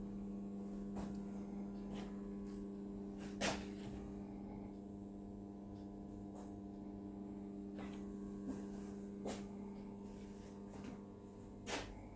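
Steady low hum with a handful of scattered clicks and light knocks, the sharpest about three and a half seconds in and another near the end.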